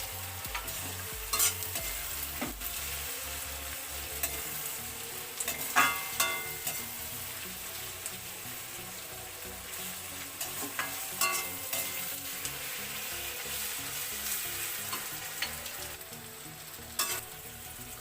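Onions, capsicum and ginger-garlic-chilli pastes sizzling in hot oil in a pan as they are stirred, with a steady hiss and now and then a sharp metal clink or scrape of the spatula against the pan.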